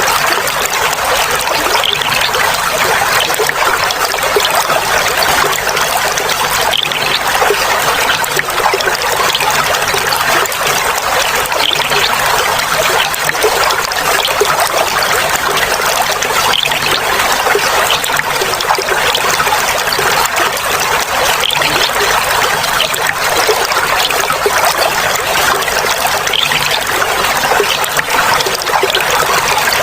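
Clear water flowing and trickling in a small stream, a steady babbling with no pauses.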